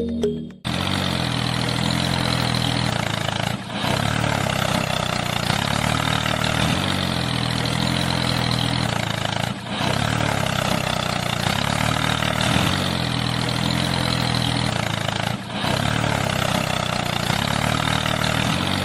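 An engine running steadily, with short dips about every six seconds that suggest a repeating loop.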